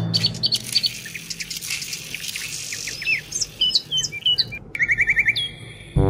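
Birds chirping: many short, quick high calls over a light hiss, with a fast run of rising chirps near the end.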